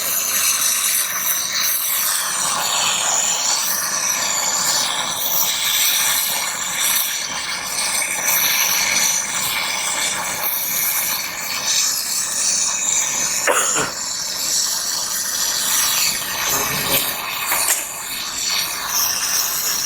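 Gas brazing torch flame hissing steadily while copper refrigerant pipe is brazed, with a couple of brief clicks in the second half.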